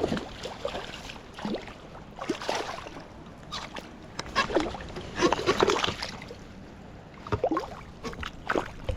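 Creek water splashing and sloshing in irregular bursts as a hooked fish thrashes at the surface while being fought and brought in; the splashing is loudest about halfway through.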